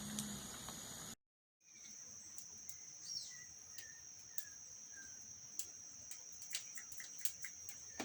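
Forest ambience: a steady, high-pitched insect drone, with a bird giving a few short falling whistled notes and scattered sharp clicks. The sound cuts out for a moment about a second in.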